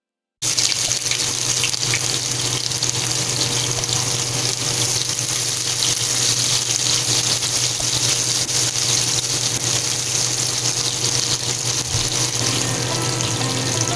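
Sliced onions sizzling loudly in hot oil in a frying pan, starting suddenly about half a second in as they go into the oil, with a steady low hum underneath.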